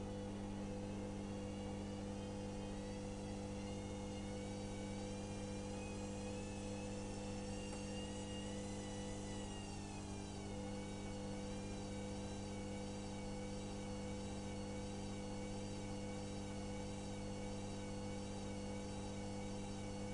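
Electrolux EWS 1045 washing machine running mid-cycle: a steady motor hum with a high whine that drifts up in pitch and then falls away around halfway through.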